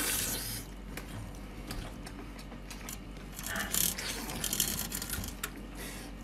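Close-up wet chewing, biting and tearing of a whole octopus, with sticky smacking and many sharp clicks. The noisiest stretches come at the start and again a little before the middle.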